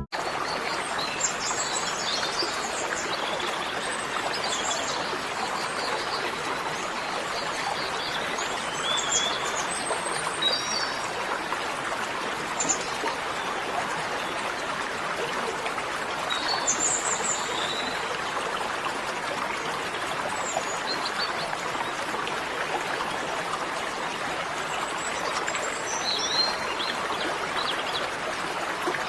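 Steady rush of flowing water, with birds chirping now and then.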